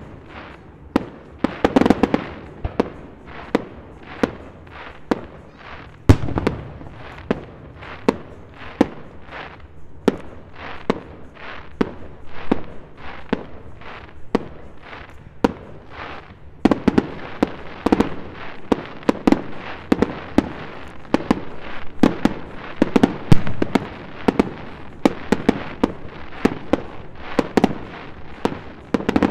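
Aerial firework shells bursting in a rapid, irregular series of sharp bangs, several a second, with the loudest bang about six seconds in. The bangs come thicker from just past the middle.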